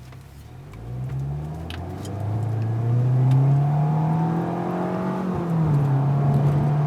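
Audi A4 2.0T turbocharged four-cylinder under throttle through a stainless turbo-back dual exhaust with a high-flow cat. The exhaust note climbs in pitch from about a second in, holds high, drops suddenly a little past five seconds, then holds at a lower pitch.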